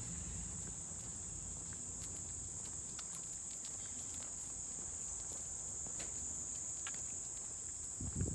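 Steady, unbroken high-pitched chorus of insects in summer vegetation, with a few faint clicks and a low rumble beneath it.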